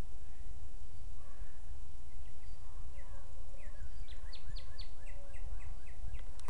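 A small bird singing a run of short, high, falling notes that become a quick, even series near the end, over a steady low rumble.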